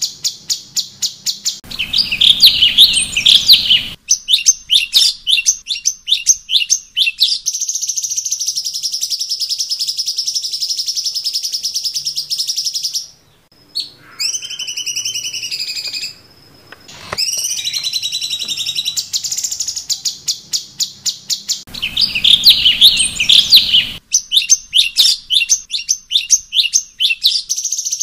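Cucak cungkok songbird singing at full voice: fast runs of sharp, high-pitched chirps and rattling trills. About halfway through it breaks off briefly for a few rising, gliding whistles, then starts the chirping runs again.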